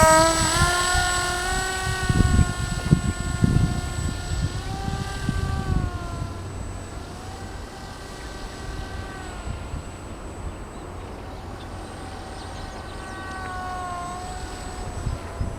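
Small motor of a model Magnus-effect aircraft spinning its rotors and propeller: a steady, high whine that has just spun up, then wavers slightly up and down in pitch. Low rumbling thumps come through during the first few seconds.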